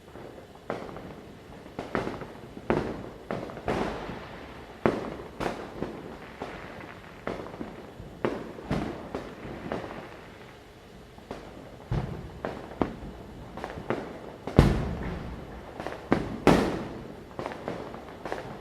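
Firecrackers going off one after another at irregular intervals, each bang followed by a short echoing tail; the two loudest come near the end. A light crackle runs between the bangs.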